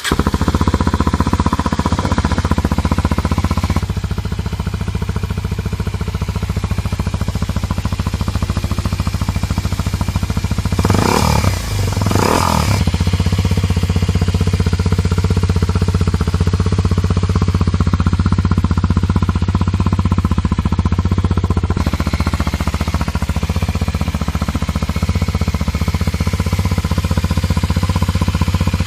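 Kawasaki Ninja 250SL single-cylinder engine idling steadily through a WR'S carbon slip-on silencer, with two short throttle blips about halfway through.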